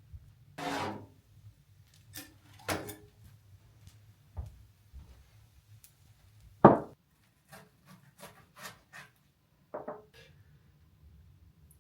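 Irregular knocks and clunks of things being handled, with a louder sharp knock a little past halfway and a run of softer ones after it.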